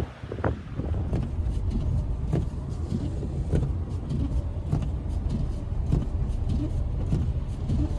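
Strong blizzard wind rumbling on the microphone, with irregular short knocks and flaps through it.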